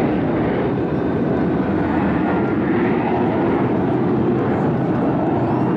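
Steady jet engine noise from the Frecce Tricolori's Aermacchi MB-339 jet trainers flying overhead, a loud, even rush of sound.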